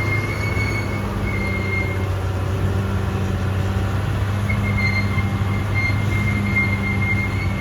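Caterpillar D6R XL bulldozer running with a steady diesel drone and a high, thin metal squeal from its steel tracks; the squeal drops out for a couple of seconds midway and then comes back.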